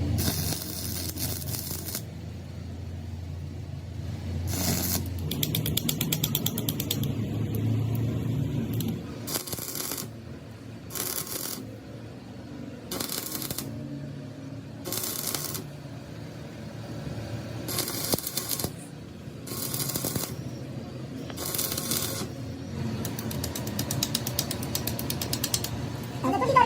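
Electric arc welding on a tractor brake disc, struck in a run of short bursts about a second each, with a harsh crackle. A low hum sits under the first few seconds.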